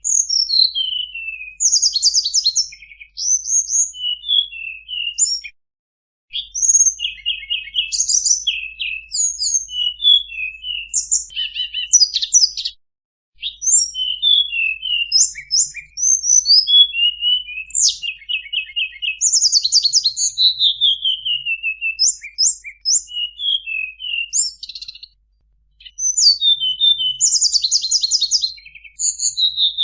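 Tledekan (flowerpecker-type songbird) lure call: high, quick chirps, rattling trills and fast falling whistled glides in rapid phrases, with a few brief pauses.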